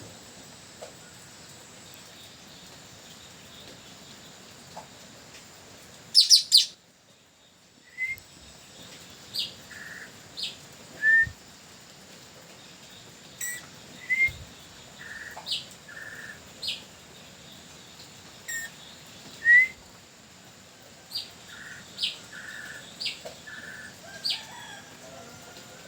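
Blue-rumped parrot (nuri tanau) giving short, sharp, high-pitched calls about once a second, a freshly caught decoy bird. A loud brief flurry comes just before the calls begin, about six seconds in, over a faint steady high hum.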